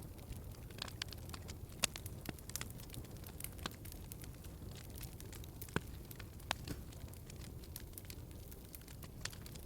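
Wood fire crackling in a fireplace: irregular snaps and pops over a low, steady rumble of flame.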